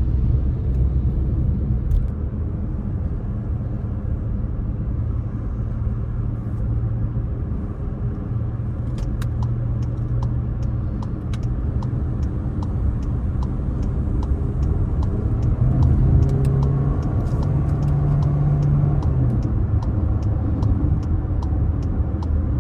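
Vehicle engine running low and steady in slow stop-and-go traffic, heard from inside the cab. Its pitch rises for a few seconds about two-thirds of the way through as the vehicle pulls forward. From about halfway there is a light, regular ticking.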